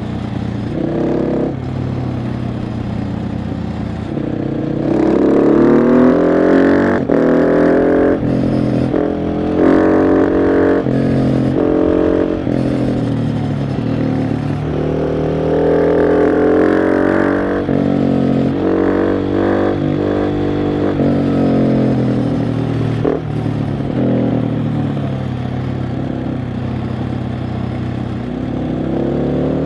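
KTM 690 SMC R's single-cylinder engine under way, repeatedly revving up through the gears with short breaks at each shift, then easing off and pulling again.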